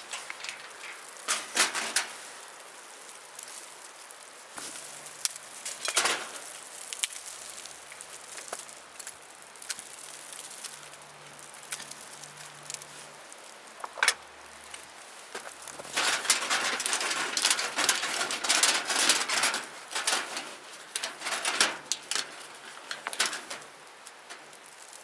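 Wood fire crackling, with scattered sharp pops and a denser run of crackling a little past the middle.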